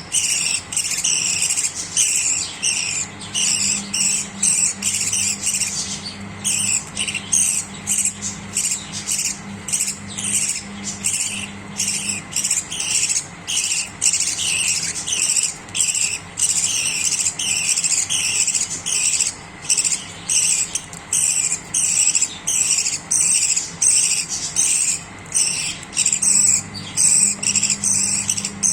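Budgerigars chirping continuously in rapid, repeated high calls, with a faint low hum underneath.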